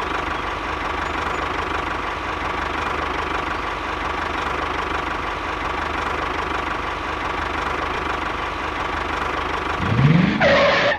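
A small engine running steadily with a knocking, idling beat and a faint whine. About ten seconds in comes a rising sweep and a louder burst, then the sound cuts off abruptly.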